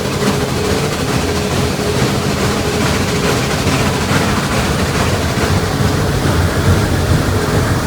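Train running, a steady rumble with a faint steady tone that fades out about halfway through.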